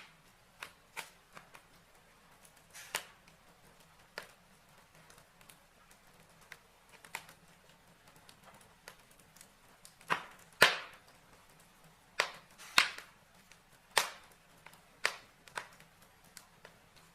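Wood logs burning in a fireplace, crackling with irregular sharp pops and snaps, the loudest of them bunched together past the middle.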